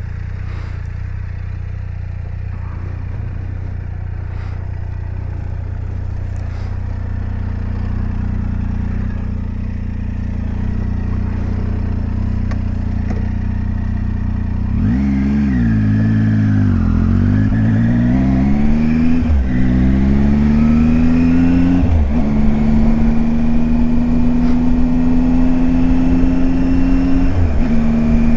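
Triumph Tiger 800 XCX's three-cylinder engine running at a steady low note. About halfway through, it pulls away and accelerates, the engine note climbing and then dropping as it shifts up through the gears three times.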